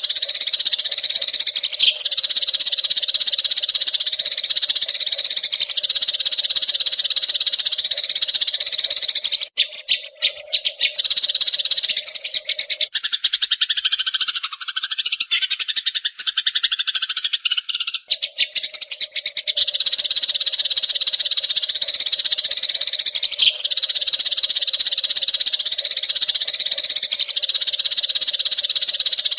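Eurasian tree sparrows chirping in a dense, continuous chatter. From about ten seconds in to about nineteen seconds the chatter shifts to a lower-pitched, more broken stretch, then returns.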